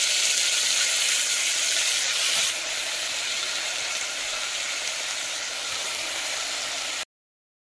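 Potato wedges and freshly added cauliflower florets sizzling in hot oil in an aluminium pressure cooker, a steady hiss that eases a little about two and a half seconds in and stops abruptly near the end.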